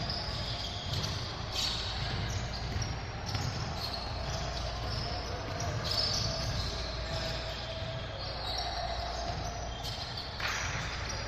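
Basketballs bouncing repeatedly on a gym floor during a game, with background voices echoing in the hall.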